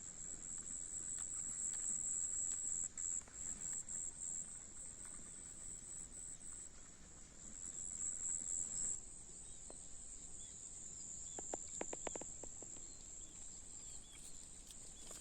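Steady high-pitched chorus of insects in a rice paddy field, with a brief run of rapid clicks about twelve seconds in.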